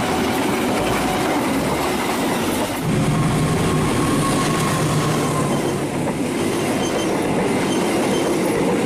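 Passenger train coaches rushing past at speed, with wheels rumbling and clattering on the rails. About three seconds in, the sound switches to a diesel locomotive approaching and passing, a steady engine note under the wheel noise, followed by its coaches.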